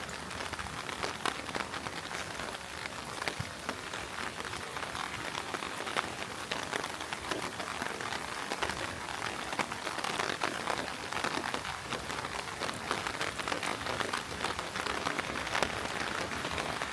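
Heavy rain falling: a steady hiss with a dense patter of individual drops.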